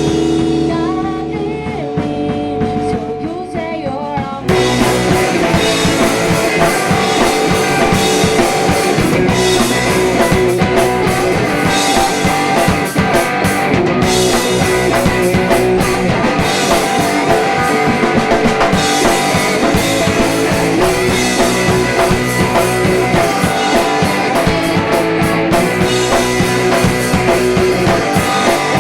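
Live indie-pop rock band playing a song with electric guitar, bass, drum kit and a woman singing. A sparser opening of held notes gives way about four seconds in to the full band with drums.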